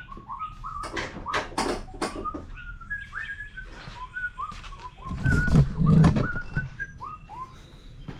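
Metal clatter about a second in, then a heavier scraping thud around the middle as the mower deck is pulled out from under a riding mower. A steady string of short, high whistled chirps runs throughout.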